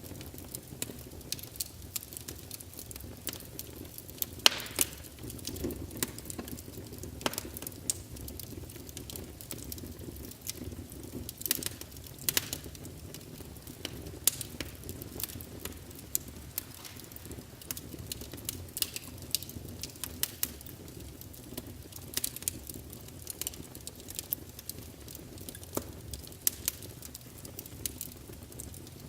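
Wood fire burning in a fireplace: a steady low rumble of flames with irregular crackles and sharp pops of the burning logs, a few louder snaps among them.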